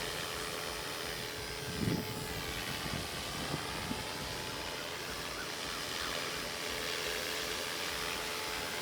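Radio-controlled model aircraft flying, its motor and propeller giving a steady whine, with a brief louder low sound about two seconds in.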